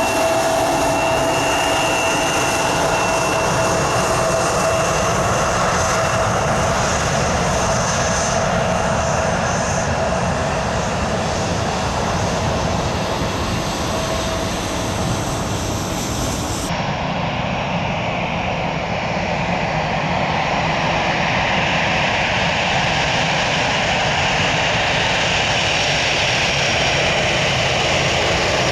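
Jet airliner engines running, a loud steady rumble with a high whine over it in the first half. The sound changes abruptly about two-thirds through to a similar steady jet roar without the whine.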